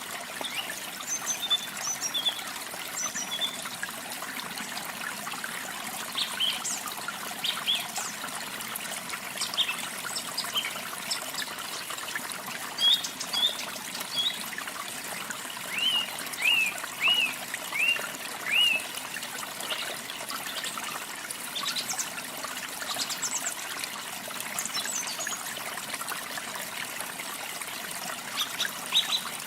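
Steady rush of a waterfall with songbirds chirping over it in short scattered calls; around the middle one bird gives a quick run of five repeated notes.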